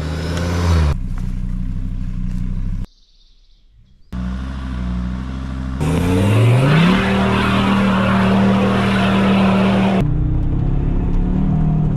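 Car engine driven hard off-road, heard in several cut-together stretches. About six seconds in the revs climb steeply and hold high, with heavy rushing noise over them, then drop back near the end. There is a brief near-silent gap at an edit about three seconds in.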